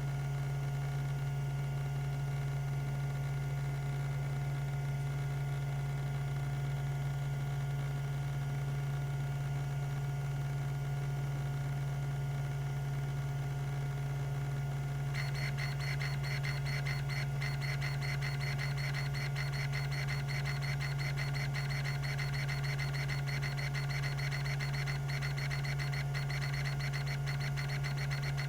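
Tandon TM362 hard drive spinning with a steady hum; about halfway through, its rack-and-pinion stepper actuator starts a rapid, continuous ticking as the heads seek back and forth.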